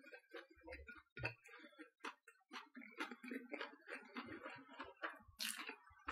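Faint, close-up chewing of a crusty baguette sandwich: scattered soft crunches and wet mouth clicks at an uneven pace.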